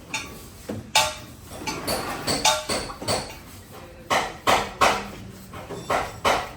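Hammer blows on car body sheet metal during panel beating: about a dozen irregular sharp strikes, some leaving a short metallic ring.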